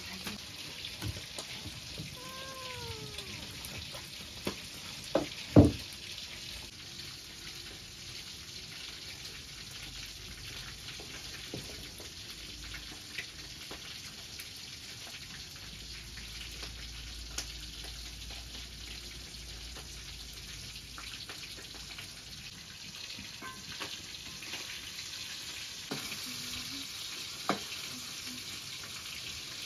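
Food frying in a pan, a steady sizzle, with a few sharp knocks; the loudest comes about five seconds in.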